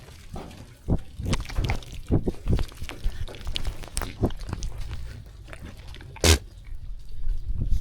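Sheep walking and grazing close by: irregular clicks, knocks and rustles of hooves and grazing, with one short, louder burst of noise a little after six seconds in.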